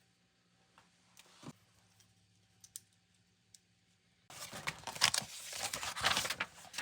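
Faint scattered clicks of hand work over a low steady hum, then from about four seconds in a loud, dense clatter and rustle of things being handled.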